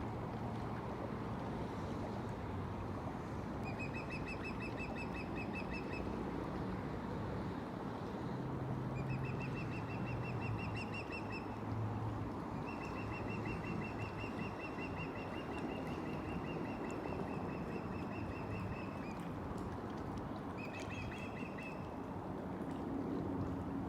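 A bird calling in runs of rapid, evenly repeated high notes, four bouts with the longest lasting about six seconds, over a steady low rumble.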